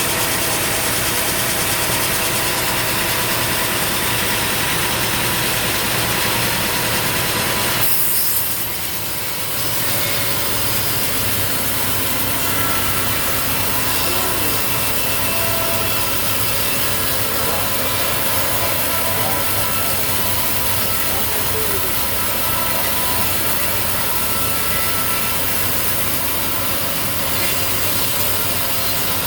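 Engine-driven sawmill blade cutting steadily through a log, with the mill's engine running under it. The cut eases off briefly about eight seconds in, then carries on.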